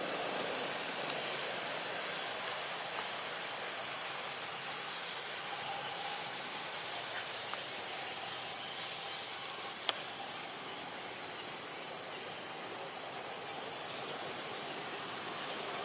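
A steady, high-pitched hiss, with a single faint click about ten seconds in.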